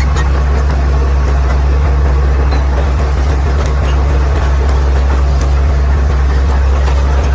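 Caterpillar D6R XL bulldozer's diesel engine running steadily with a deep, even drone, its pitch and loudness holding unchanged.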